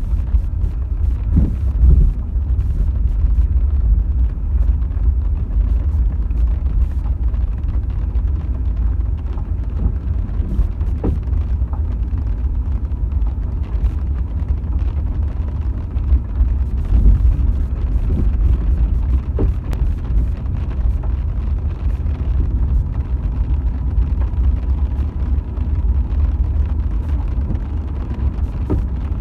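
Car driving on rain-wet roads, heard from inside: a steady low rumble of tyre and engine noise, with a few faint knocks.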